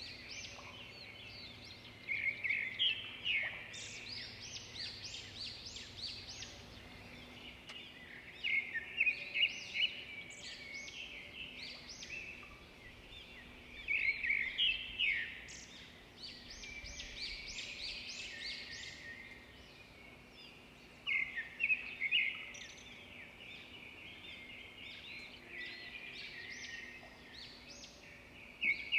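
Birds singing in loud bursts of rapid chirps that come back about every six or seven seconds, with fainter chirps between them, over a faint steady hum.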